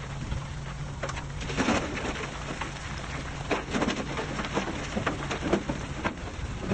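Diesel engine of heavy earthmoving machinery running with a steady low drone, overlaid with irregular crackling and knocks.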